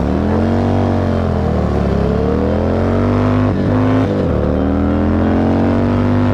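Sport bike engine under way, its pitch rising and falling as it pulls and eases off, with a couple of quick gear changes a little past halfway.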